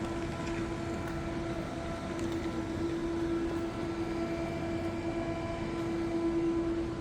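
A steady machine hum holding one constant pitch with overtones, over a noisy background.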